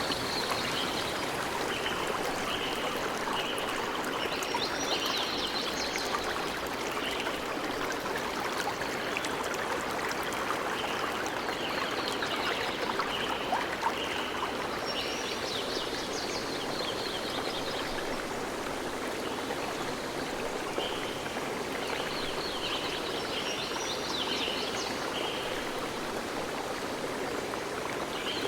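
A stream flowing steadily, with a songbird singing over it. The bird sings three bouts of quick repeated notes and trills, about ten seconds apart.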